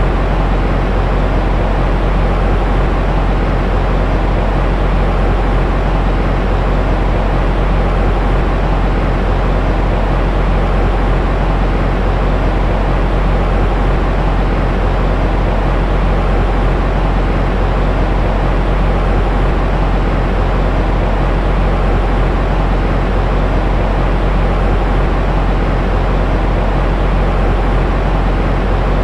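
Steady, unchanging white noise with most of its weight low down, a deep rumbling hiss that fades toward the top.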